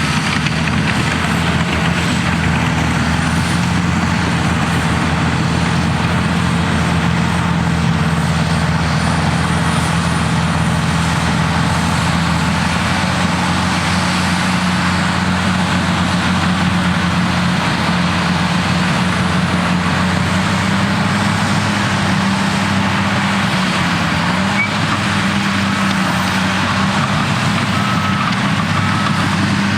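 Cat D6T bulldozer's diesel engine running steadily under load, its pitch dipping briefly a little over two-thirds of the way through.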